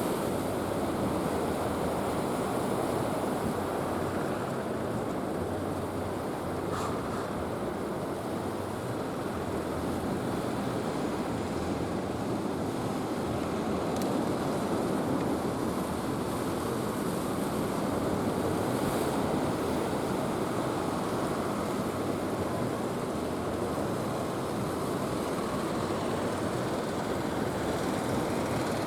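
Steady wash of surf with wind buffeting the microphone, swelling and easing slowly.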